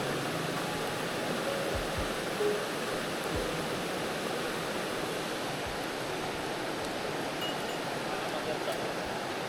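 Mountain stream water rushing steadily over rocks, with a few soft low bumps in the first few seconds.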